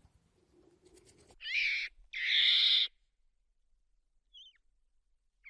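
Monkey calls: two high, wavering squeals in quick succession, the second longer. A faint short chirp follows near the end.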